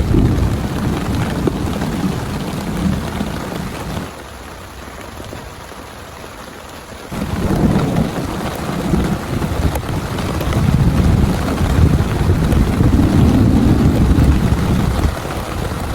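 Heavy rain pouring down, with deep rolling thunder rumbling beneath it. The rumble drops out suddenly about four seconds in, leaving only the rain, and comes back about three seconds later.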